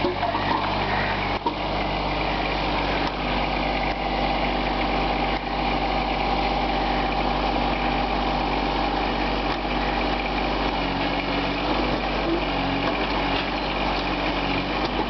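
Small John Deere tractor's engine running steadily, with a couple of short knocks about a second in.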